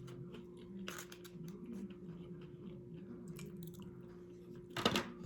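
Close-miked chewing and crunching of nachos, with scattered small crackles and a louder burst of crunching near the end.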